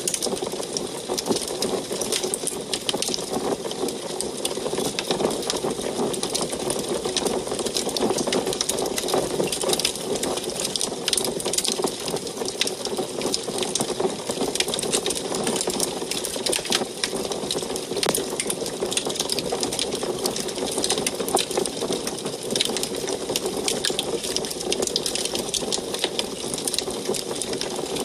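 Wood fire crackling inside an antique wood stove: a dense, unbroken run of small sharp snaps over a steady hiss.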